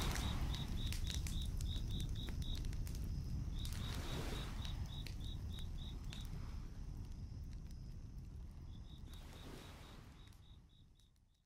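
Crickets chirping about four times a second over a crackling campfire with a low rumble, with a few soft rushing swells; the whole ambience fades out near the end.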